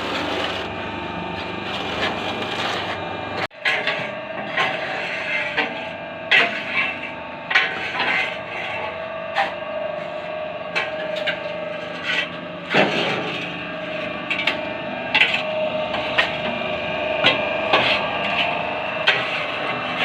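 Paving block moulding machine running: a steady motor hum under frequent, irregular knocks and clatter, with a brief drop-out about three and a half seconds in.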